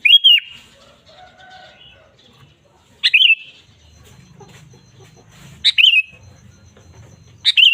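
Sooty-headed bulbul (kutilang) singing: four short, loud whistled phrases, each a quick warbling note, spaced two to three seconds apart.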